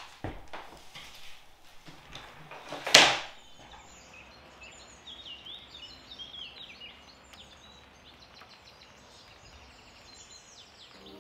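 A short, loud rush of noise about three seconds in, then birds chirping and singing with quick, falling notes over a quiet outdoor background.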